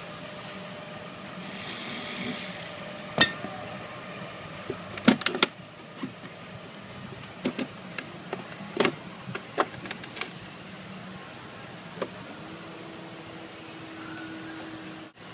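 Sharp clicks and clanks of metal tools and parts being handled, a few of them close together about five seconds in. Near the end a small motor runs steadily for about three seconds.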